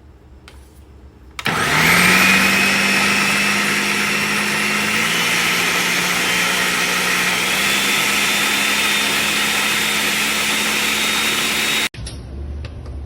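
Ninja NJ601AMZ blender's 1000-watt motor starting up, its whine quickly rising to speed, then running steadily and loudly for about ten seconds before cutting off abruptly.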